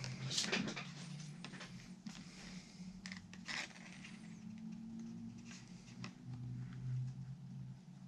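Handling noises of parts and tools being worked with: scattered small clicks, taps and rustles over a steady low hum.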